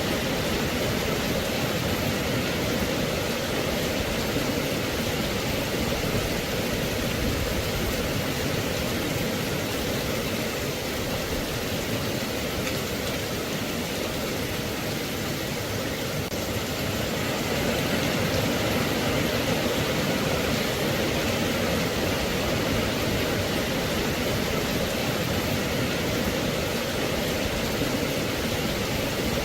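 Steady rain falling: an even, unbroken wash of noise with no separate impacts or pitched sounds.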